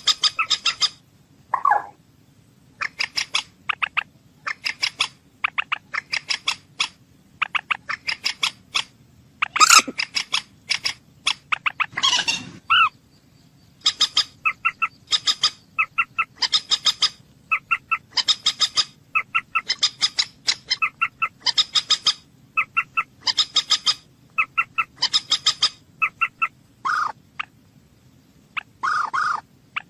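Moorhen calling: quick runs of short, sharp notes repeated in groups, with a few longer, lower calls in between.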